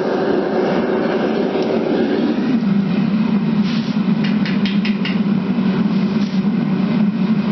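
Metal-melting furnace burner running with a steady roar while aluminum melts; its tone drops lower about two and a half seconds in. A few light clicks come around four to five seconds in.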